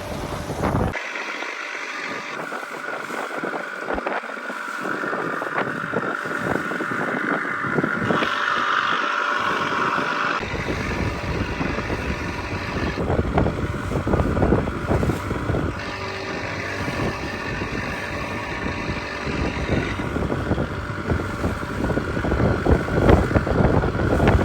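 Small boat under way at sea: a motor running steadily beneath heavy wind buffeting on the microphone.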